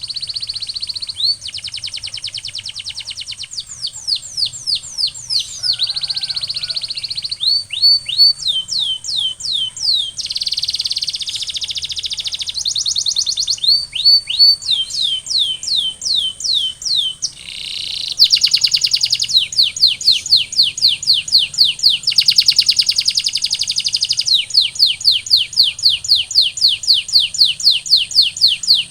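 Domestic canary singing its song in tours: runs of down-slurred whistled notes repeated several times a second, alternating with fast rolling trills.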